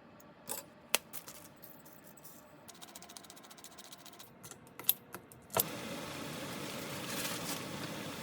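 Metal cookware and utensils clinking a few times. About two-thirds of the way through, a steady hiss starts with a sharp click.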